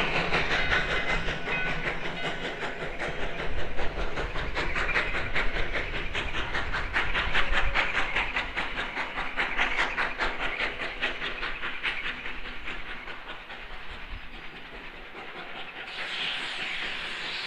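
Virginia & Truckee No. 29, a 2-8-0 steam locomotive, working around a curve with a rapid, even beat of exhaust and running gear that fades slowly as it passes. A rushing steam hiss starts suddenly near the end.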